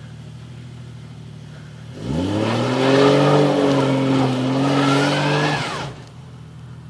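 Jeep engine running low, then revving up about two seconds in, holding high revs for about four seconds under load, then dropping back near the end.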